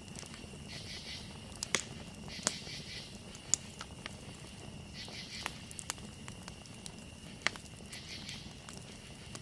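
Campfire burning: wood crackling with a soft hiss and scattered sharp pops, the loudest about a third of the way in and again near three quarters. A faint steady high tone sits behind it.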